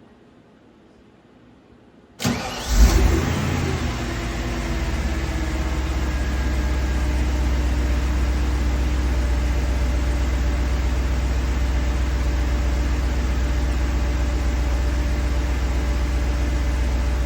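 De Tomaso Guarà's V8 cold-starting: it fires about two seconds in, flares up briefly, then settles into a steady idle.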